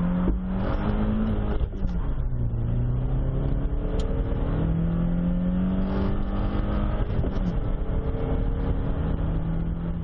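Toyota Corolla S 1.8-litre four-cylinder engine at full throttle, heard from inside the cabin during a 0-60 mph run. The revs climb, fall sharply at an upshift of the 6-speed manual about two seconds in, climb again, and drop at a second upshift past seven seconds.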